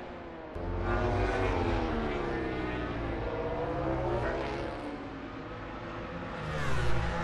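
MotoGP racing motorcycles on track, their engines revving, the pitch sliding up and down as they pass and change gear. One passes louder near the end.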